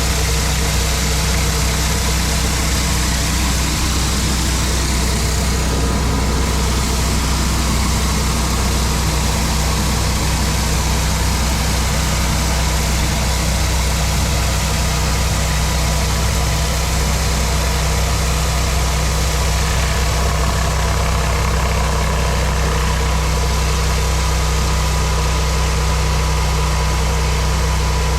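Gas-engine pressure washer running steadily at a constant pitch, with the hiss of its high-pressure water spray on concrete.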